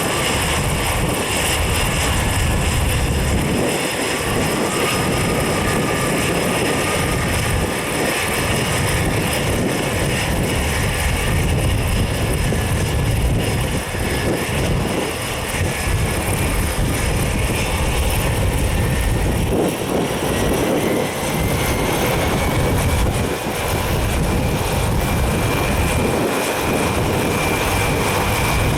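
Cessna 208 Caravan's Pratt & Whitney PT6A turboprop engine running, a steady turbine whine that rises slowly in pitch through the second half. Heavy wind buffeting the microphone.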